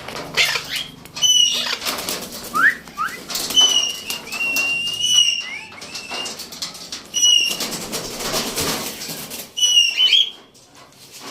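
Parrots giving short, repeated whistled calls every second or so, with two quick rising whistles about two and a half seconds in, over wing flapping and rustling.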